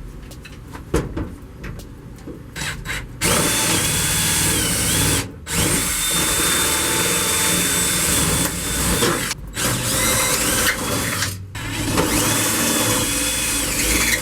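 Power drill running in four long bursts, its whine rising as it spins up and dropping as it stops, backing out the fasteners of a race car's shifter. A few light handling clicks come before the first burst.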